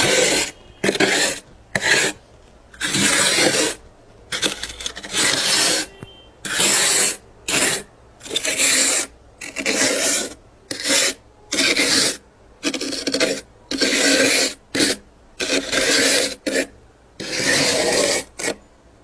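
Frost build-up inside a freezer being scraped in repeated rasping strokes, about twenty of them, some short and some lasting about a second.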